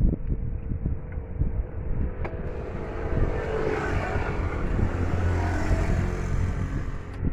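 Vehicle engine running steadily with a low rumble, overlaid in the middle by a swell of louder, brighter noise that builds and then cuts off near the end.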